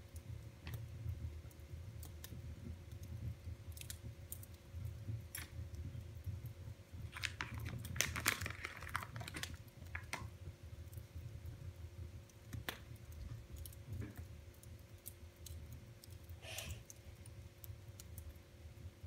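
Wood fire in a fireplace crackling, with scattered sharp pops and a denser run of crackles about eight seconds in, over a low steady rumble.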